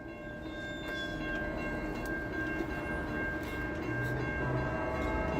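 Train passing, a low rumble with a steady high ringing tone held over it, growing louder throughout.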